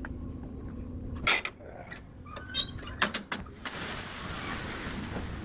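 Truck engine running with a steady low rumble, then a sharp metal clunk about a second in and a few clicks and rattles near the middle, as the trailer is being opened up.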